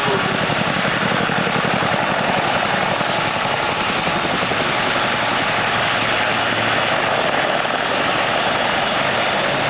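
Helicopter rotors and engines running loud and steady, with a rapid, even beat of the blades low down.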